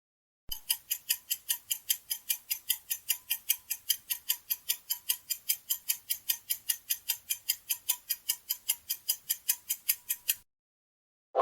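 Clock-like ticking sound effect of a countdown timer, about four sharp ticks a second for about ten seconds, starting about half a second in and stopping abruptly near the end.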